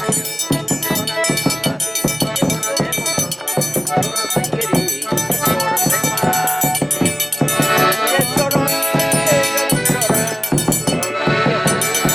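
Live forró pé-de-serra played instrumentally: an accordion carries the tune in sustained chords over a steady, even beat of drum and high metallic percussion.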